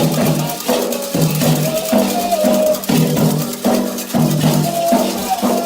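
Candomblé ritual music: a dense rhythm of hand drums and shaker rattles, with voices singing a chant over it.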